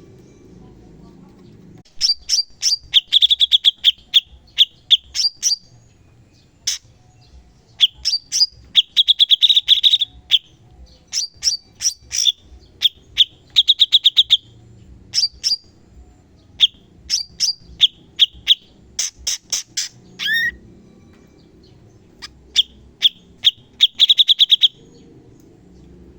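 Cucak cungkok songbird singing in rapid bursts of sharp, fast-repeated high notes and short trills, the 'tembakan' burst song used to train other birds. The bursts start about two seconds in and stop shortly before the end, with one brief falling note near the end.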